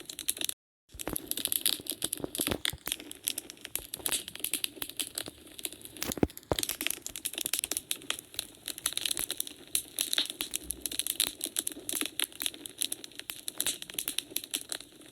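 Wood fire crackling in a fireplace: dense, irregular snaps and pops of burning logs, with one louder pop about six seconds in. The sound cuts out completely for a moment near the start.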